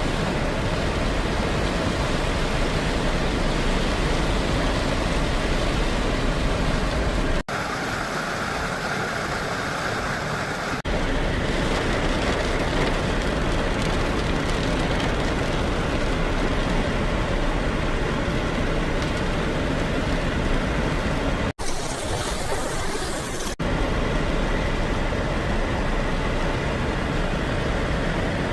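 Steady noise of a car driving in heavy rain: road and rain rumble with a strong low end. Twice, about seven seconds in and again past twenty seconds, the sound cuts abruptly to a few seconds of a thinner, hissier water-like noise before cutting back.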